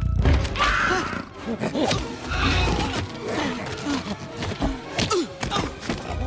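Animated film soundtrack: dramatic music with several heavy thuds and impacts.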